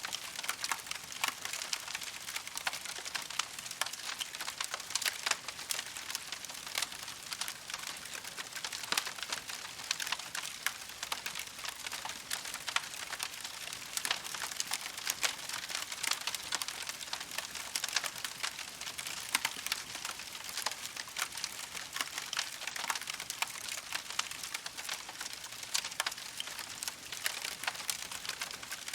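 Campfire crackling: a constant stream of small sharp pops and snaps over a steady hiss of burning wood.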